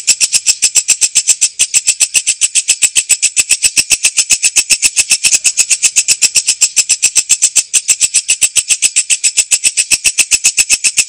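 Walang kecek katydid (bush cricket) calling: a steady, high-pitched train of sharp chirping clicks, about seven a second.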